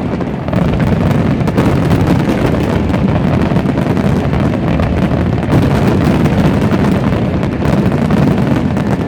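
Fireworks display at its height: a dense barrage of bangs and crackle that runs together into a continuous rumble.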